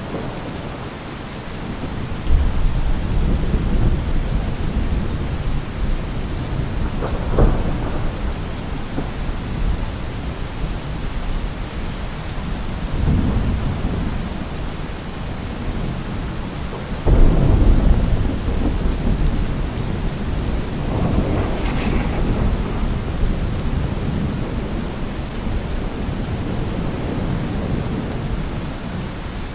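Thunderstorm: steady heavy rain under repeated rolls of deep thunder. A sudden loud thunderclap comes a little past halfway, followed by another sharper crack that rumbles away.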